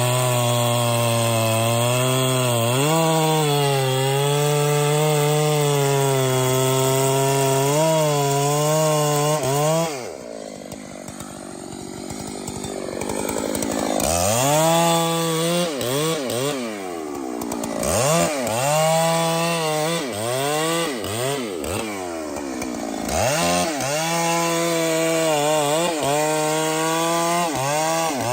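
Chainsaw running at full throttle, cutting wood, for about ten seconds, then falling back to idle. A few seconds later it is revved up and down repeatedly in short bursts.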